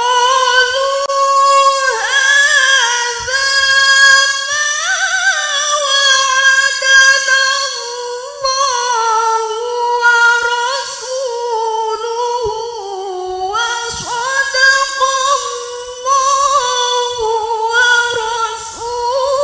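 A woman's voice reciting the Qur'an in melodic tilawah style, unaccompanied. She holds long, ornamented notes in drawn-out phrases, with short breaths between them about a third and four-fifths of the way through.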